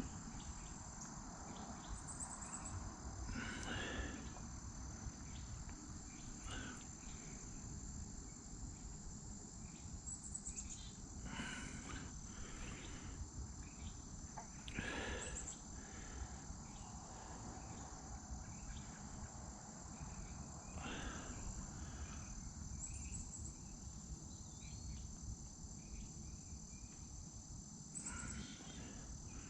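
A steady, high-pitched chorus of crickets or other insects, with a few short faint rustles and knocks every several seconds.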